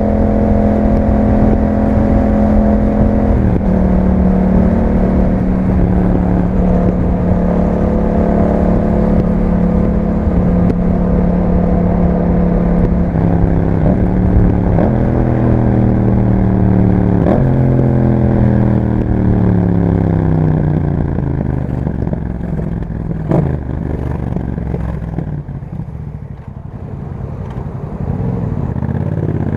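Yamaha MT-07's parallel-twin engine through an Akrapovic exhaust, running steadily under way with a few small shifts in pitch and some sharp clicks. Past the middle the revs fall away for several seconds as the bike slows, then pick up again near the end.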